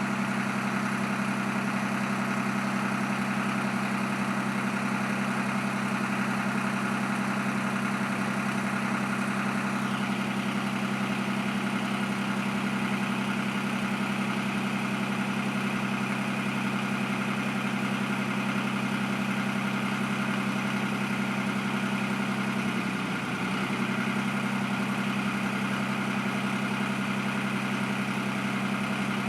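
Old John Deere tractor engine idling steadily, with one brief sag in its note about three-quarters of the way through.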